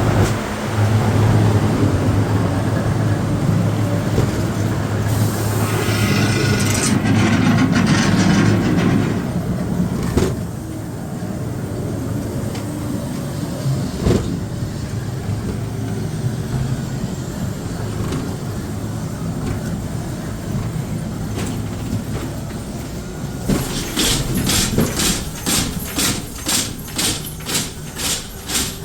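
Ghost-train ride car rumbling along its track, with a steady low hum for the first several seconds and a hissing burst partway through. Near the end comes a run of sharp rhythmic clacks, about two a second.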